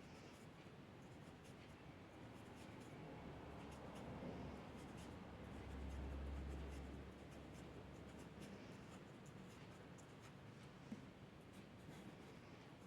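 Faint scratching of a drawing tool moving over paper, with a brief low rumble about six seconds in.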